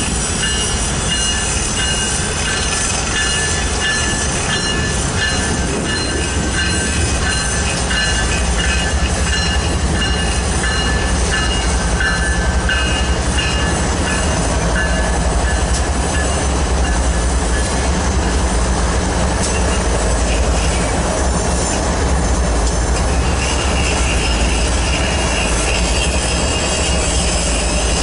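BNSF intermodal freight train led by GE ES44-series diesel locomotives moving slowly past: a steady heavy diesel and rail rumble with high-pitched wheel squeal, the squeal strongest in the first half.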